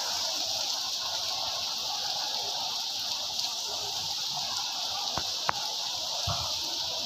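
Torrential rain pouring steadily onto flooded ground, a dense even hiss, with two sharp knocks about five seconds in.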